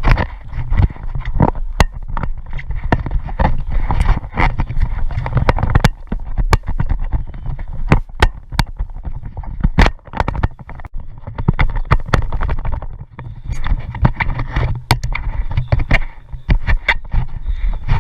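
A kayak being paddled on open water: irregular splashing, with many sharp knocks and clicks from the paddle and hull over a steady low rumble.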